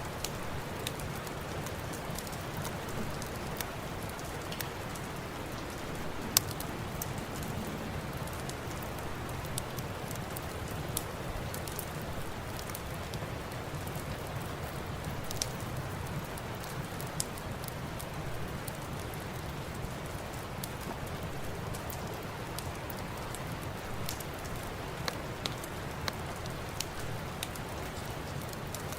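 Steady rain with a fireplace crackling, sharp pops scattered through it; the loudest pop comes about six seconds in.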